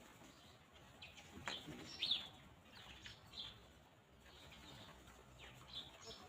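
Birds chirping: scattered short, high chirps, each falling in pitch, the loudest about two seconds in.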